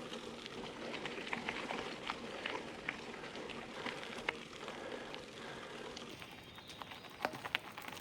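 Bicycle tyres rolling over a gravel road: a steady crunching hiss dotted with small irregular clicks of loose stones.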